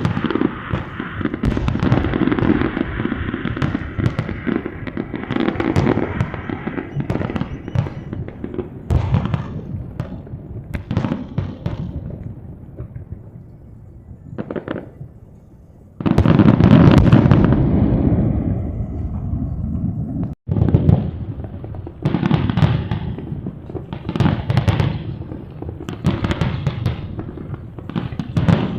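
Aerial fireworks bursting in quick succession, with deep booms and dense crackling. The bursts thin out to a lull about halfway through, then a loud barrage starts suddenly.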